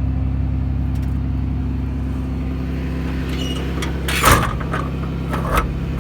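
A Cummins turbo diesel engine idling steadily. About four seconds in, a metal utility-body compartment door shuts with a loud bang, followed by a couple of smaller latch clicks.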